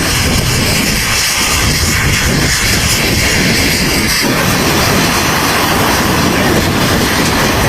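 Helicopter turbine engines and rotor running steadily and loudly, kept running on the ground while the helicopter is refuelled and rearmed.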